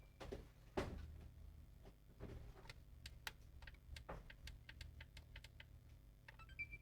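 Faint, irregular light clicks and taps, with a low steady hum underneath and a brief high beep right at the end.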